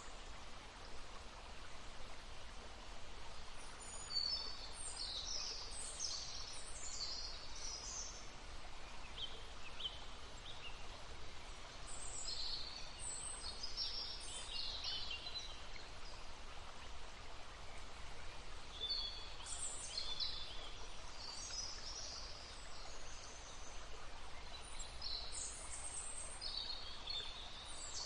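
Small songbirds singing in high chirping phrases that come in clusters every few seconds, over the steady babble of a brook.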